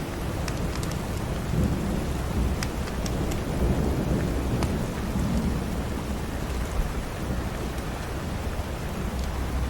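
Steady rain with a low rumble underneath, and now and then a sharp pop or crackle from a wood fire in a fireplace.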